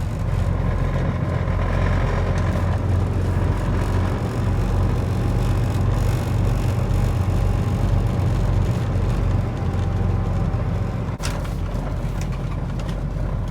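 Semi truck's diesel engine running steadily, heard from inside the cab. A single short click about eleven seconds in.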